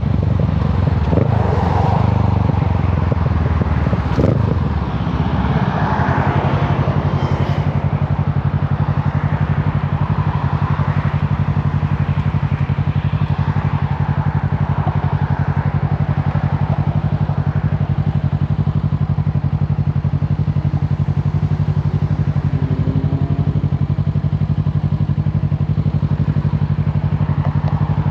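Kawasaki Z650's parallel-twin engine coming off the throttle, its revs falling over the first few seconds, then idling steadily.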